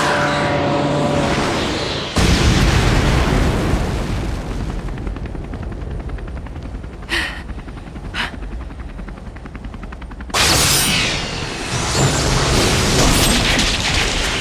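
Cartoon battle sound effects. A sudden loud blast about two seconds in dies away over several seconds. A fast rattle of gunfire follows, with two sharp cracks, and then a second loud blast about ten seconds in.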